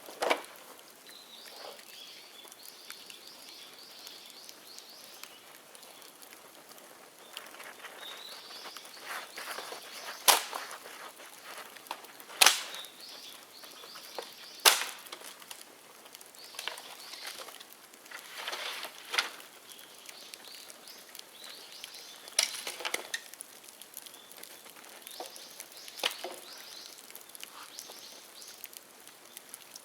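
Sharp, loud cracks of dry bamboo in a bonfire, several seconds apart, with lighter crackling between them and birds chirping.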